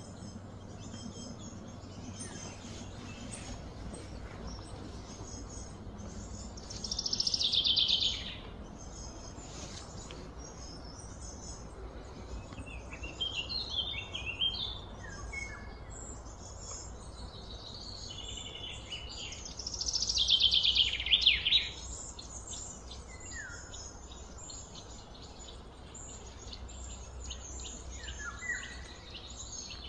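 Birds chirping and calling, with two louder descending trilled calls, about seven and twenty seconds in, over a steady low background rumble.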